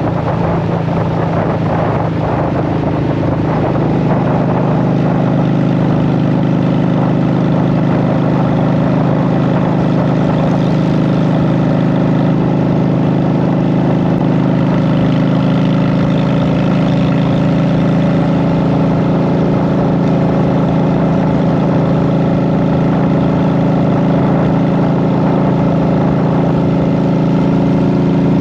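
Honda Shadow VT750's V-twin engine running through Vance & Hines Short Shots exhaust pipes while riding. The note shifts briefly in the first few seconds, then holds steady at a cruise.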